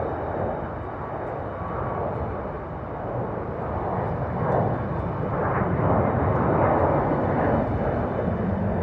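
Airliner taking off: a continuous rumble of engine noise at takeoff power that grows steadily louder.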